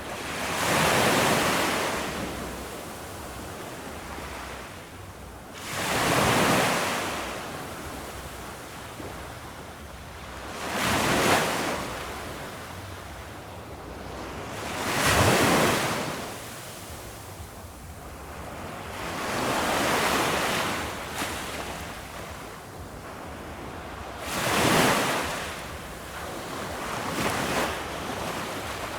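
Ocean waves breaking on a beach, a wash of surf swelling and fading about every four to five seconds over a steady hiss of water, six breakers in all.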